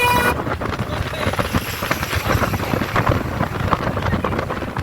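Strong sea wind buffeting the microphone in a continuous rough rumble. A steady high pitched tone with many overtones cuts off just after the start.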